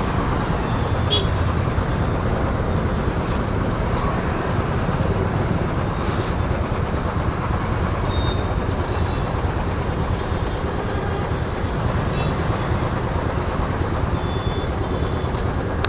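Motorcycle riding through city traffic: steady engine and road noise that holds at an even level throughout.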